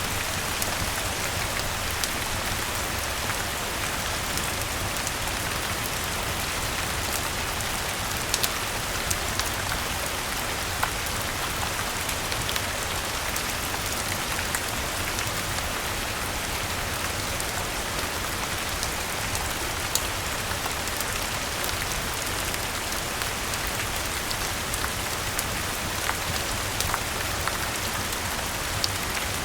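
Steady rainfall, an even hiss of rain on a surface, with scattered sharp pops every few seconds.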